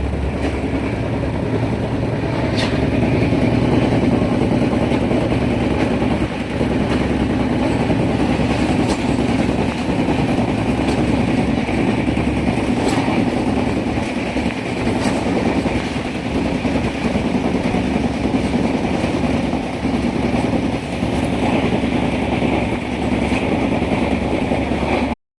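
A train running along the track: a steady rumble with sharp clicks every second or few. The sound cuts off suddenly near the end.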